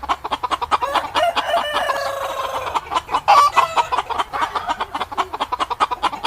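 Chickens clucking in quick, overlapping calls, with a rooster crowing once about two seconds in as one long, slightly falling call.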